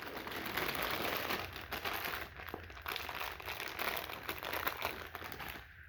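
Toy packaging being handled: a continuous rustling and crinkling with small crackles, stopping shortly before the end.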